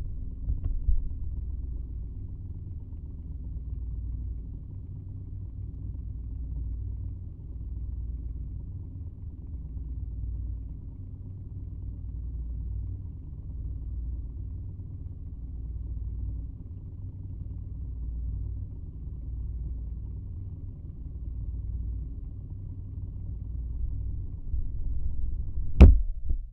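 Sony CF-620 radio cassette recorder's tape transport running, picked up through a geophone contact microphone as a steady low rumble with a faint hum, swelling and fading about every two seconds. A small knock comes about a second in and a sharp, loud knock near the end.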